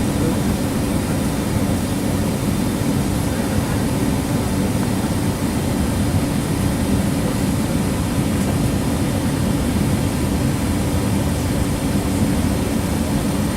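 Regional airliner's engines running at taxi power: a steady, low-heavy rumble with a faint high whine above it.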